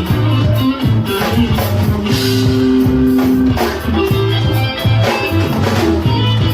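Live band playing rock-style music during a soundcheck, with guitar over a drum kit and bass, one guitar note held for over a second midway.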